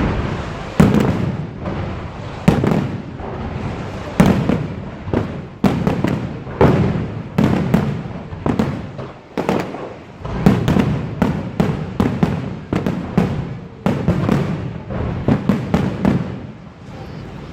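Fireworks shells bursting in quick succession, about one or two loud bangs a second, each followed by a rumbling echo.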